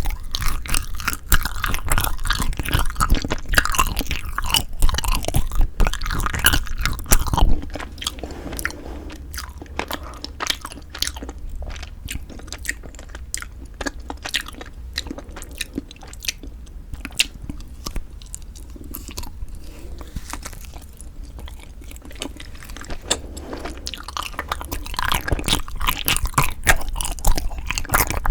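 Close-miked chewing and biting of Kiri cream cheese chapssal-tteok ice (rice-cake ice cream), with many small mouth clicks. Louder for the first seven or so seconds, quieter through the middle, and louder again near the end.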